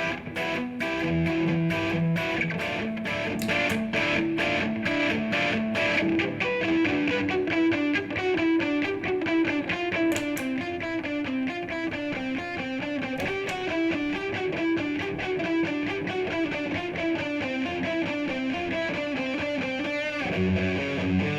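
Distorted electric guitar played through a Bluguitar Amp1 on its Classic channel, a JCM800-style crunch: strummed chords for the first few seconds, then fast single-note lead lines, and chords again near the end.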